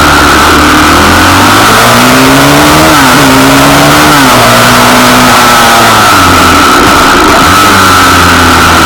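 Pit bike engine revving up and pulling through the gears: the pitch climbs, drops at two shifts about a second apart, then settles into a steadier lower note.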